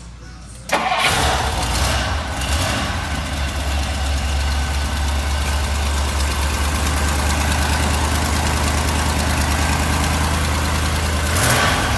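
1962 Ford Thunderbird's 390 V8 starting up just under a second in and settling into a steady idle, with a brief rise in revs near the end.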